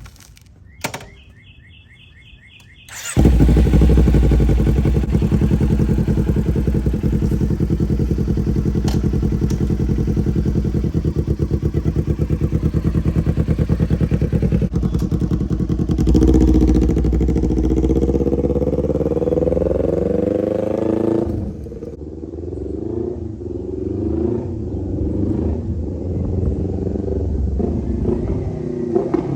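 Kawasaki Ninja 400's parallel-twin engine through a straight-piped Austin Racing exhaust. After a short high whir, the engine comes in loud about three seconds in and runs steadily. About halfway through the revs climb, then drop, and after that the pitch rises and falls repeatedly as the bike is ridden through the gears.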